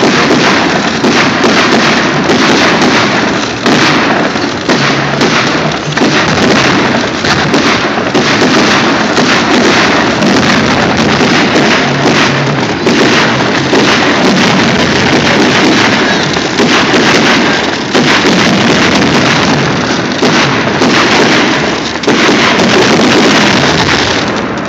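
Dense, continuous barrage of exploding fireworks, many bangs and crackles overlapping with no pause.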